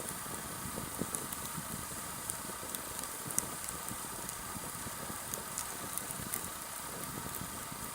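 Campfire of sawtooth oak (kunugi) logs burning, crackling with irregular small pops and snaps over a steady hiss, one sharper pop a little before the middle.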